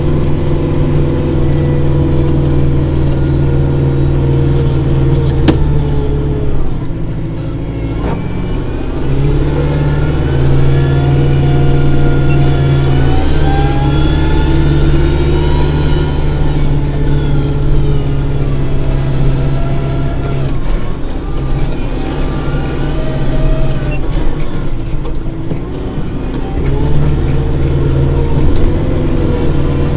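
Kubota diesel tractor engine running continuously. Its note dips briefly a few times as it takes load, and a higher whine rises and then falls in the middle.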